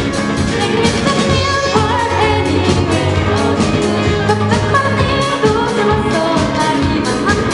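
Live band playing a song, a vocalist singing the melody over a steady drum beat.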